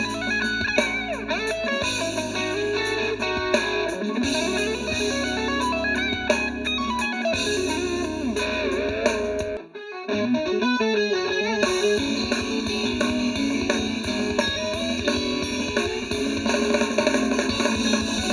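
Math-rock band recording: clean electric guitars playing fast, bright major-key lines hammered on along single strings, over drums and bass. The music drops out briefly about ten seconds in, then picks up again.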